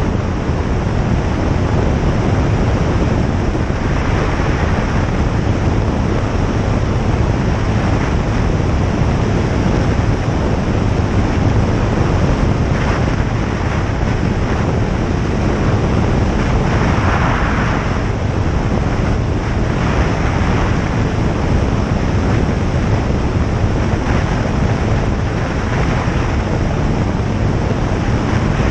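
Single-engine light aircraft's piston engine and propeller running steadily in flight, with a constant rush of airflow noise.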